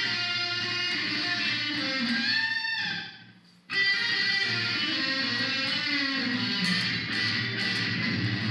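Electric guitar played through a Korg A5 multi-effects unit set to slapback echo: chords ring out and die away about three seconds in, then a fresh chord is struck just under a second later and rings on.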